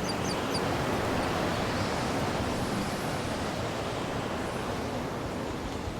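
Surf washing onto a beach: a steady rush of wave noise that swells a little midway. A few short high chirps come at the very start.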